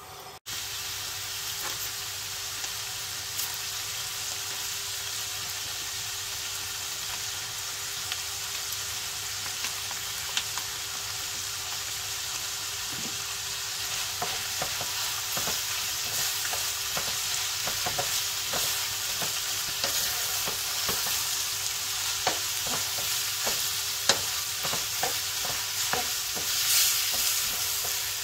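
Chicken strips with sliced peppers, onion and courgette sizzling steadily as they fry in a non-stick pan. From about halfway, a wooden spatula scrapes and knocks against the pan as the mix is stirred, the knocks coming more often toward the end.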